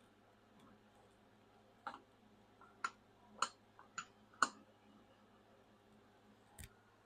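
A handful of faint, sharp clicks and light taps, most bunched between two and four and a half seconds in, with one more near the end: small metal parts of a hydraulic control valve being handled.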